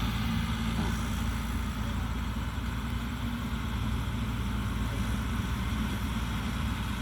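A 260-horsepower combine harvester running steadily: an even, low engine drone under a constant mechanical hiss.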